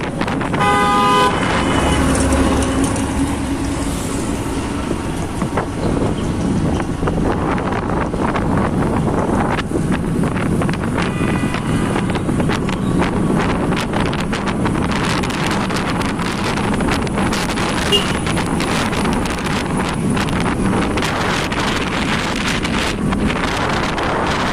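Wind and road noise on a moving motorbike, with a short horn toot about a second in and another brief, higher-pitched toot around halfway through.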